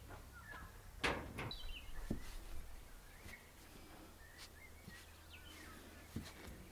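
Faint birds chirping in short, scattered calls, with a sharp knock about a second in and a few lighter clicks.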